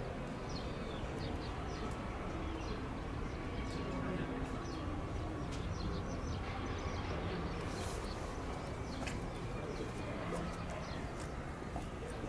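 Outdoor ambience: small birds chirping again and again over a steady low background rumble, with a brief hiss about eight seconds in.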